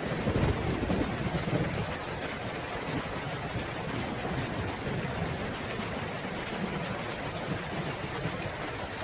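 Steady rain falling, with a low rumble of thunder in the first couple of seconds, after which the rain goes on alone.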